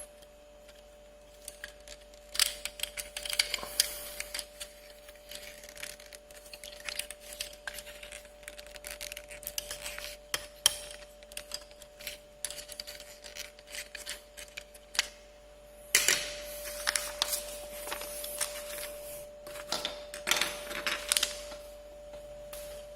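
Hard plastic action-figure parts being handled and fitted together: irregular clicks, taps and rattles, in two busier clusters, one a few seconds in and another in the last third. A faint steady tone runs underneath.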